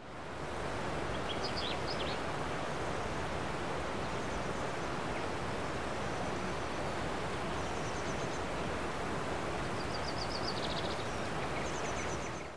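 Steady outdoor rushing noise with small songbird chirps coming in short high groups every few seconds.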